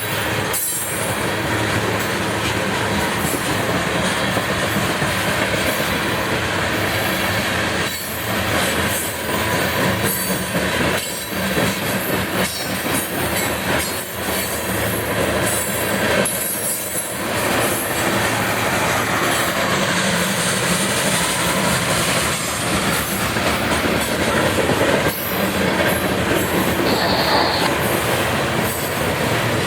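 Loaded coal train's gondolas rolling past steadily, steel wheels clacking over the rail joints, with a brief high wheel squeal near the end.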